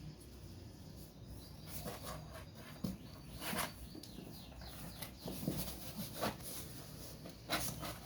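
Cats and kittens making short, scattered calls amid a few light knocks and taps.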